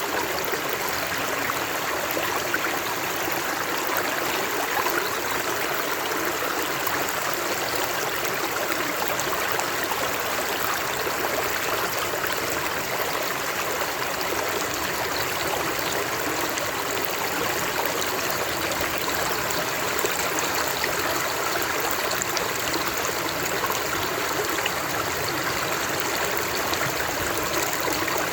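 Running water making a steady, even rush with no breaks or changes.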